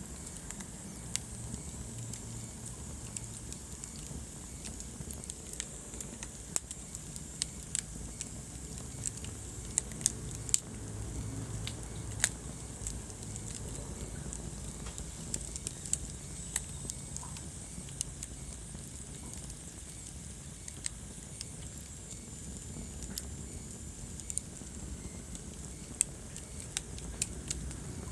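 Wood fire burning in a fireplace: irregular sharp crackles and pops, a few louder snaps around the middle, over a steady low rumble of the flames.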